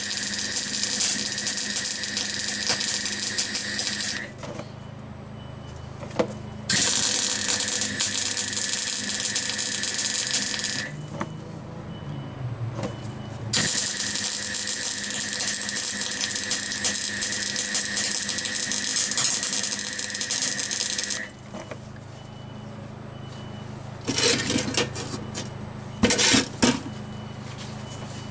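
Electric welder laying beads on a steel gearbox mount bracket, a steady crackling hiss. Three long runs of about four, four and eight seconds with short pauses between, then several brief spurts near the end, like tack welds.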